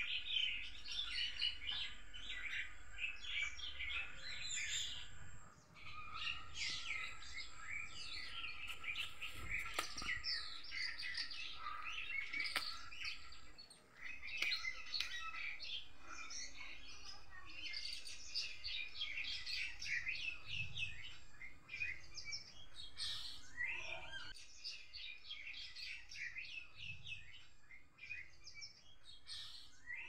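Many birds chirping at once: a dense, continuous chorus of short high calls, with two brief lulls.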